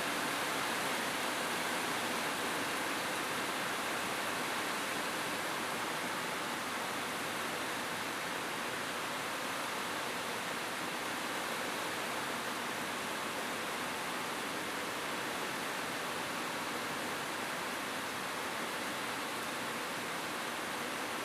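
Rain falling steadily on a rooftop, an even, unbroken hiss.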